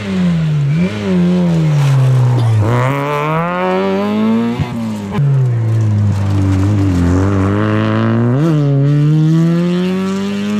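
Rally car engine driven hard. Its pitch climbs steadily under acceleration and drops abruptly several times, as at gear changes and lifts off the throttle, with a short crack about four and a half seconds in.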